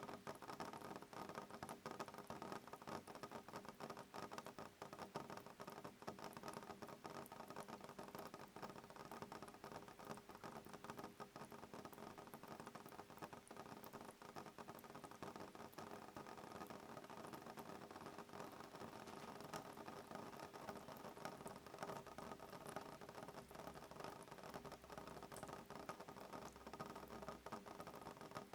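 Soft rain on a window pane: a steady, quiet patter of many small drops, with no thunder.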